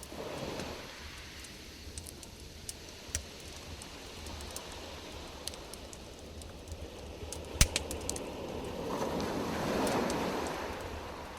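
Wood campfire crackling: scattered snaps and pops over a rushing hiss, with one sharp, loud crack about seven and a half seconds in. The rushing swells louder near the end.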